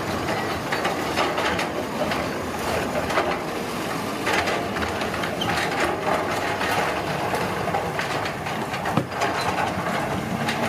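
Heavy construction machinery working on a road, a steady mechanical noise with frequent irregular clanks and knocks.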